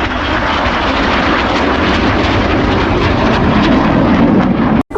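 Red Arrows BAE Hawk T1 jets passing overhead: a loud, steady jet roar that grows louder toward the end, then cuts off abruptly just before the end.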